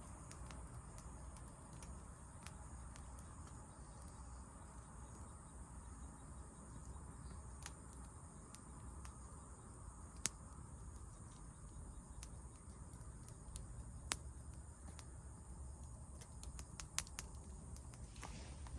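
Campfire of burning wood crackling faintly, with scattered sharp pops and a small cluster of them near the end, over a steady faint high-pitched background tone.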